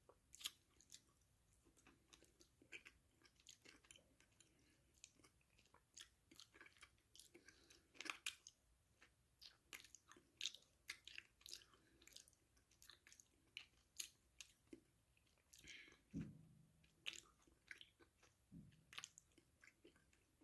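Close-miked chewing of crunchy food: a steady run of sharp, irregular crunches and bites, with two duller, deeper sounds near the end.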